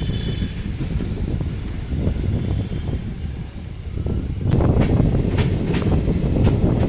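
Train in motion: a steady low rumble of the sleeper coach's wheels on the track, with faint high-pitched wheel squeals over the first few seconds. About four and a half seconds in it gets louder, and a series of sharp clacks from the wheels passing over rail joints sets in, roughly two or three a second.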